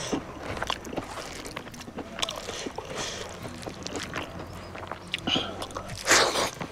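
A person chewing and smacking while eating a meal of pork and rice, heard as irregular small clicks and wet mouth noises. A short, louder breathy rush comes about six seconds in.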